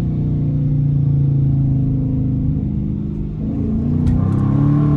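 Straight-piped exhaust of a Dodge Challenger R/T's Hemi V8, with resonator and mid-muffler deleted, loud and droning at a steady cruise, then rising in pitch as the car accelerates over the last couple of seconds.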